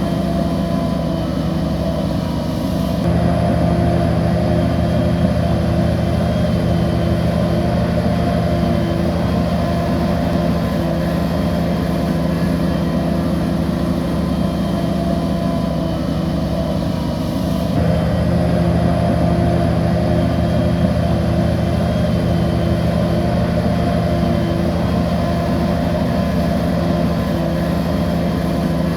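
Heavy diesel engine of a crawler bulldozer running steadily. It gets abruptly louder and fuller about three seconds in, eases off near the middle, and steps up again at about 18 seconds.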